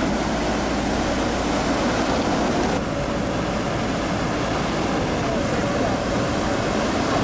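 Steady rushing noise of wind and surf, with faint distant voices. The high hiss drops slightly about three seconds in.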